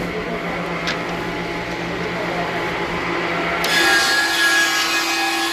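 Power saw running with a steady hum, then cutting into wood about two-thirds of the way through, getting louder with a hissing rasp.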